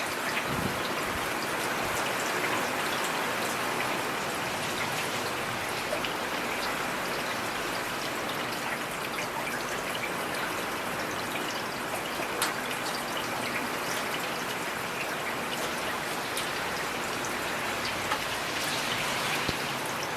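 Heavy rain falling steadily: an even hiss of rain with scattered sharp ticks of individual drops striking.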